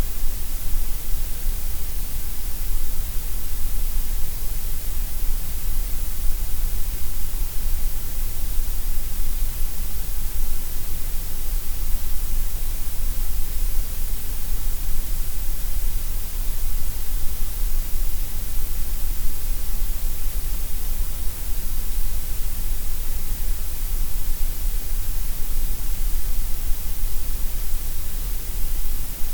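Gray noise: a steady, unchanging synthetic hiss, fuller in the deep lows and the highs than in the middle.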